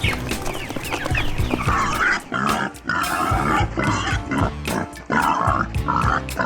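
Pigs squealing and grunting in a run of short, harsh calls that begin about two seconds in, over background music.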